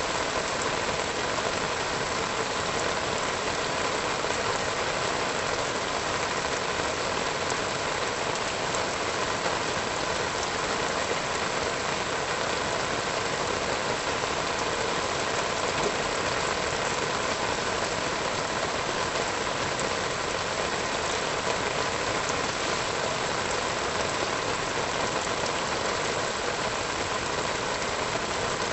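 Steady rain falling, an even hiss of many drops that keeps up without change.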